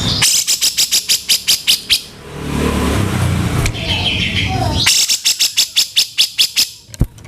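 Grey-cheeked bulbul (cucak jenggot) giving harsh, rough chattering calls in two rapid bursts of about eight notes a second: one just after the start, the second about five seconds in. A low rumble fills the gap between them.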